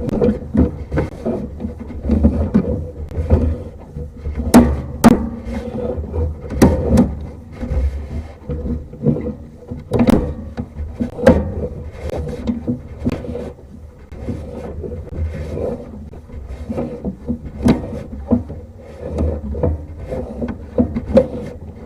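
Sewer inspection camera's push cable being fed through a drain pipe: irregular knocks, scrapes and rubbing as the camera head and cable bump along the pipe, over a low rumble.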